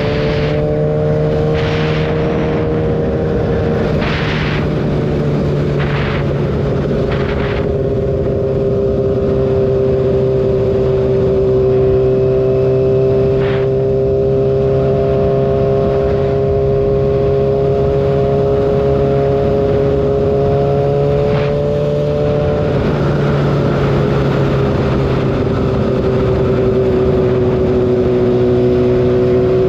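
Kawasaki ZX-6R inline-four sport bike engine cruising at steady high revs on the highway, with wind noise over the microphone. A few short rushes of noise come in the first several seconds, and the engine pitch eases down a little about three-quarters of the way through, then holds.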